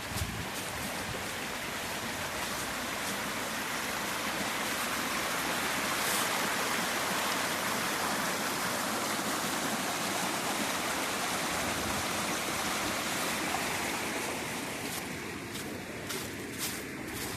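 River rapids: a steady rush of fast-flowing water, fullest through the middle and easing off a little near the end, where a few brief knocks come through.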